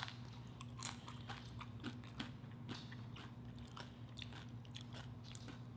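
Chewing food, with soft crunching and many small irregular clicks, over a faint steady low hum.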